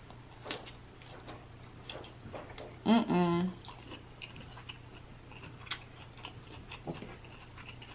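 Close-miked chewing of broccoli, with scattered small wet, crunchy clicks. About three seconds in, a brief voiced hum is heard.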